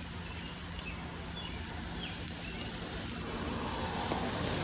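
Outdoor ambience: a steady low rushing noise with a few faint short bird chirps in the first two seconds, the noise growing louder near the end.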